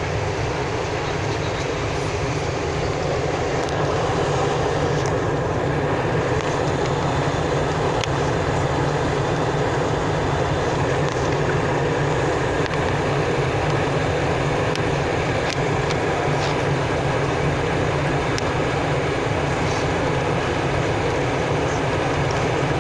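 Steady jet airliner cabin noise: engines and rushing air heard from inside the cabin, getting a little louder about four seconds in.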